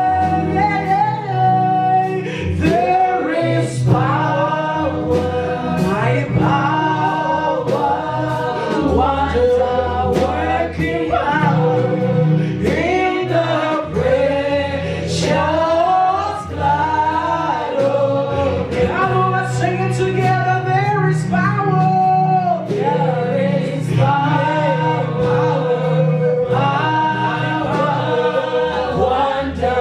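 Group gospel worship singing, voices rising and falling in melody over sustained low bass notes that shift from chord to chord.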